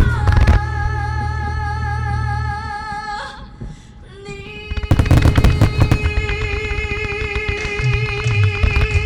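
Show music played over the venue's loudspeakers with long held notes, dropping away briefly just before the middle, then a dense run of sharp fireworks bangs and crackles from about five seconds in, over the music.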